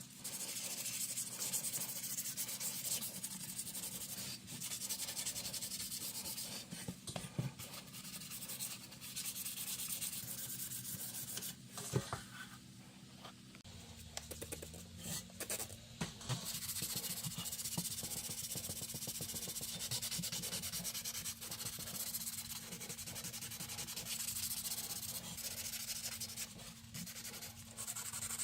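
Continuous abrasive rubbing, sandpaper or a similar abrasive worked by hand over rusty pressed-steel toy truck parts, with a short lull about halfway through.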